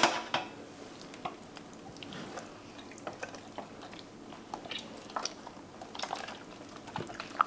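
Soft, scattered wet squishing and sticky smacks of hands working a thick marinade paste under raw chicken skin and into the cavity.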